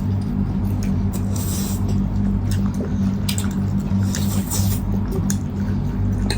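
Wet chewing and slurping of people eating chow mein and salad, in short scattered smacks, over a steady low hum.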